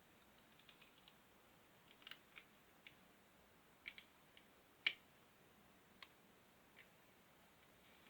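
Faint, scattered clicks of small plastic building blocks being handled and pressed together, about a dozen in all, the sharpest about five seconds in.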